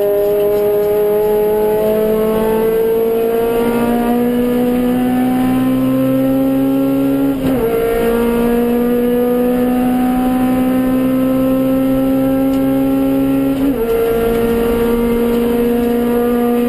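Suzuki Swift GTi's G13B 1.3-litre twin-cam four-cylinder engine at full throttle under race load. The engine note climbs steadily through long gear pulls and drops sharply twice, about halfway through and again near the end, as the driver upshifts.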